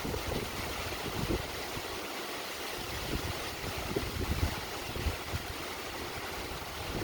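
Wind buffeting the microphone in low, uneven gusts over a steady hiss of lake water.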